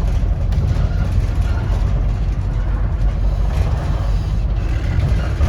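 Inside a moving 2008 Scania N230UD OmniCity double-decker bus: its five-cylinder diesel engine runs steadily under way, a constant low drone mixed with road noise in the cabin.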